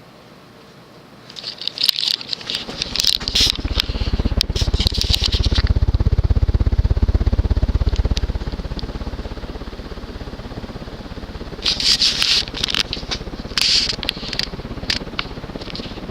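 An Emerson KB55 ceiling fan stack motor switched into reverse while the fan is turning: a loud low buzz builds over a few seconds as the motor brakes the blades and drives them the other way, then eases off. Bursts of crackling and scraping clicks come about a second in and again near the end.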